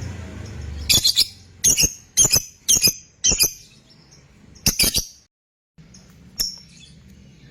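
A lovebird giving a series of short, shrill, high chirps, some coming in quick pairs, with a sudden brief gap of silence about five seconds in.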